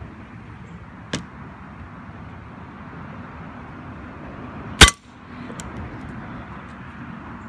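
A single sharp crack from a CO2-powered Umarex Walther P99 DAO BB pistol firing, about five seconds in, with a smaller sharp click about a second in and a faint tick just after the shot.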